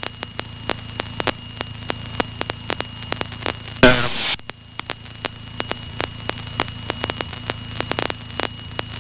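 Crackling static on a Piper PA-28's headset intercom: irregular sharp clicks several times a second over the steady drone of the aircraft's engine, with a brief voice fragment about four seconds in. The pilot puts the static down to a faulty passenger microphone.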